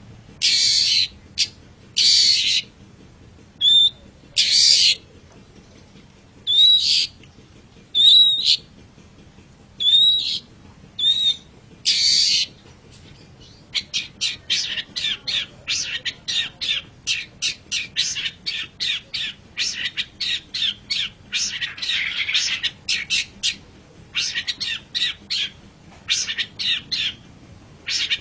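Long-tailed shrike (cendet) calling. For about the first half it gives separate harsh, raspy calls about half a second long, mixed with short rising whistled notes. Then it breaks into a fast, chattering run of short notes, several a second.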